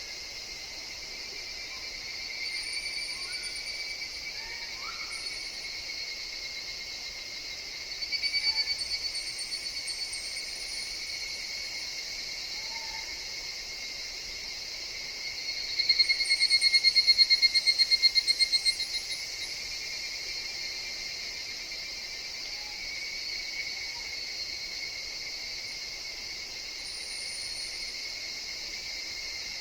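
Higurashi evening cicadas calling over a steady, shrill insect chorus. Louder pulsed trills swell up twice, briefly about eight seconds in and for about three seconds past the midpoint, fading as they end.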